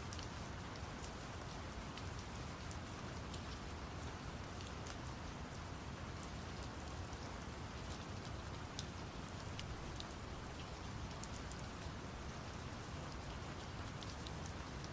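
Steady rain with scattered drop ticks, over a deep, even brown-noise hiss.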